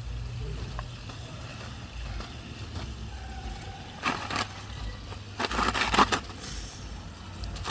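Chicken pieces frying in a pot of hot oil, with loud bursts of crackling sizzle about four seconds in, again around five and a half to six seconds, and near the end, over a low steady rumble.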